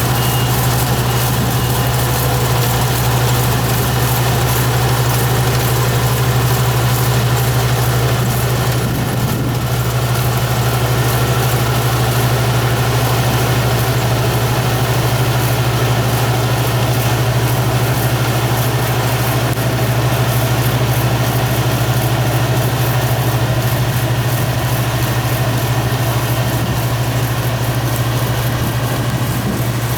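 Yanmar farm machine's engine running steadily at a constant speed with a strong low hum, a warning beeper sounding in short beeps that stop about a second in.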